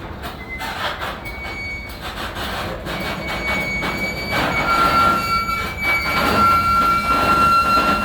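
Freight grain train rolling on the rails with a steady rumble. Thin, high wheel squeal sets in about halfway through and grows louder.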